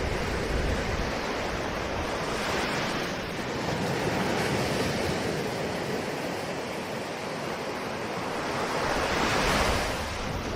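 Ocean surf: waves washing in as a steady rush, with swells building and breaking, the largest near the end.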